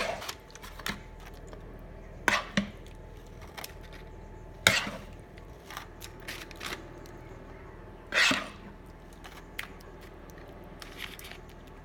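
A spoon knocking and scraping against cookware while bolognese sauce is spooned and spread over lasagna sheets: about four separate knocks, the one about eight seconds in longer, with small clicks between.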